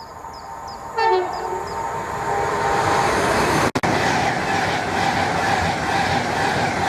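A train sounds a short horn blast about a second in, then passes close at speed with a loud, steady rushing of wheels on rail.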